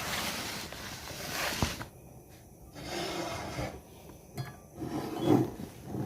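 Kitchen handling noises during cooking: three bouts of rasping scrape or rustle, each about a second long, the last ending in a sharp knock just past five seconds in.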